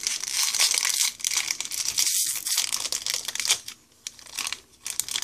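Foil booster-pack wrapper crinkling and crumpling in the hands, an irregular rustle that pauses briefly about two seconds in and again near four seconds.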